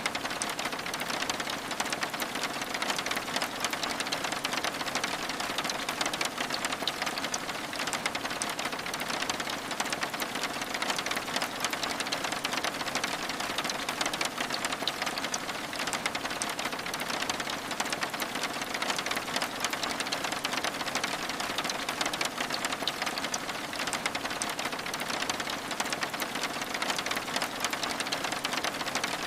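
Steady rain on window glass: a dense, even patter of many small drops that holds at the same level throughout.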